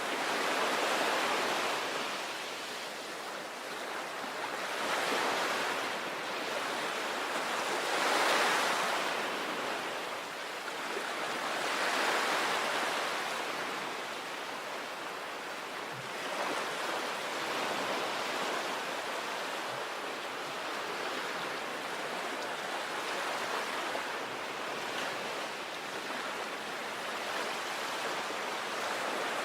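Sea waves breaking on a beach: a steady wash of surf with waves swelling and falling back every three to four seconds, the swells evening out into a steadier rush in the second half.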